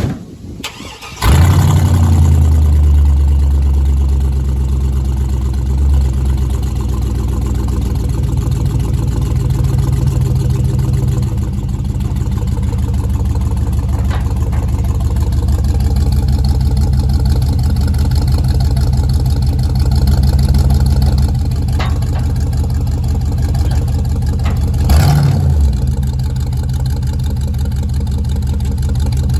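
A tow vehicle's engine starts about a second in and then runs steadily with a deep rumble. There is a brief louder moment near the end.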